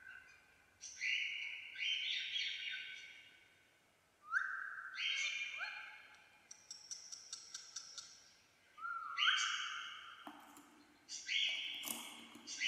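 Parrot calling: harsh squawks in pairs, each sliding up at the start and then held, repeated about four times with short pauses between. A brief patter of quick ticks comes midway.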